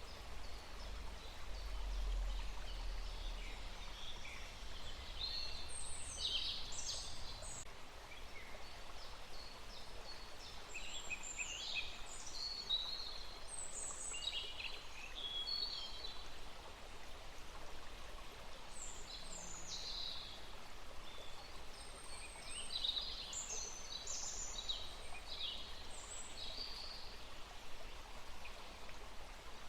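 Wild songbirds singing and chirping in short, repeated phrases over a steady outdoor background hiss, with a low rumble in the first few seconds.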